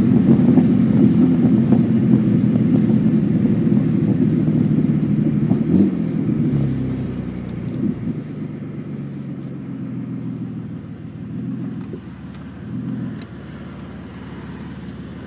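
Holden VL Commodore engine running on open extractors with no exhaust fitted, a loud raw note for about six seconds. It then gets steadily quieter through the rest of the stretch.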